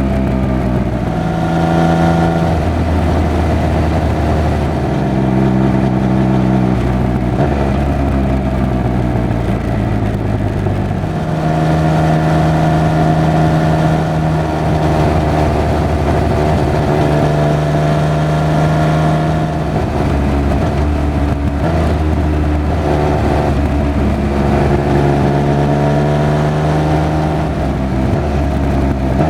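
Triumph Speed Triple 1200 RR's three-cylinder engine and exhaust under way. The pitch rises and falls with throttle and gear changes, and holds steady for stretches of several seconds.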